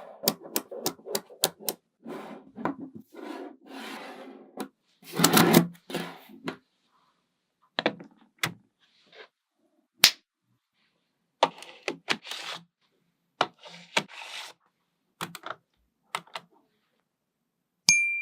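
Small magnetic balls clicking and snapping together and rattling as they are handled, in short irregular bursts of sharp clicks with pauses between. Near the end comes one brief ringing ding.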